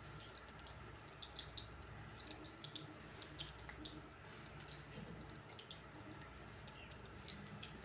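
Dollops of semolina-and-banana batter deep-frying in hot oil in a pan: a faint, steady sizzle with scattered small crackles and pops.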